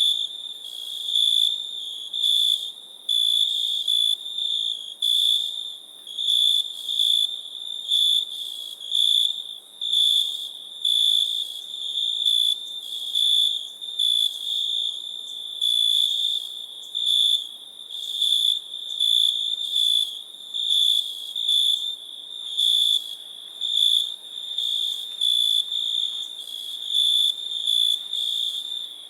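Crickets chirping: a high trill pulsing in regular chirps, a little more than one a second.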